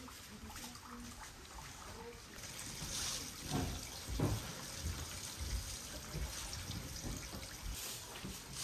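Water trickling steadily, with a couple of dull thumps around the middle.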